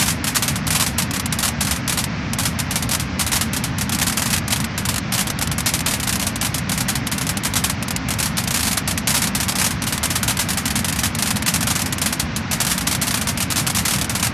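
Wood fire crackling and popping continuously: dense, rapid crackles over a steady low rush.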